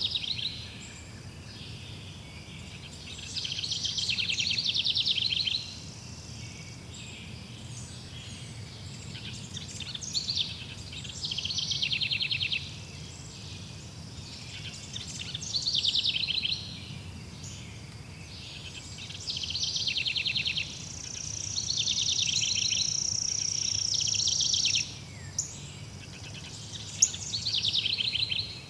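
Birds singing: fast, high trilled phrases repeated every few seconds, with one longer held high note a few seconds from the end, over a steady low background rumble.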